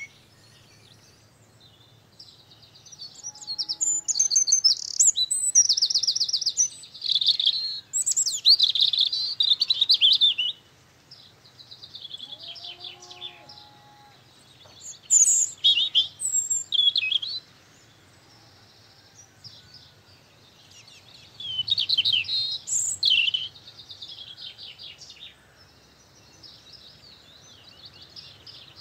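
Birds chirping and singing in rapid high trills, coming in bursts of a few seconds with quieter gaps between them.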